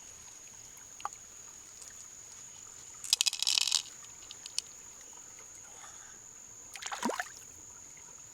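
A steady high-pitched insect trill, like a cricket, runs throughout. Two short bursts of clicking and scraping come about three seconds in and again about seven seconds in, the second with a falling sweep.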